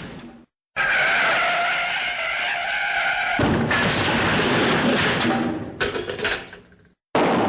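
Cartoon skid sound effect: a long, noisy screech with several steady squealing tones, lasting about six seconds, thinning partway through and fading out unevenly near the end.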